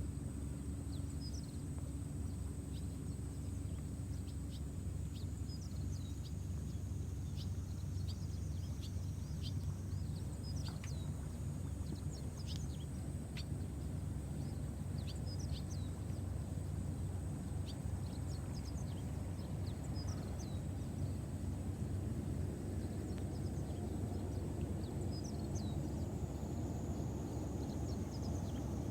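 Ambient background: a steady low rumble with many short, high chirps of small birds scattered throughout, and a thin steady high whine.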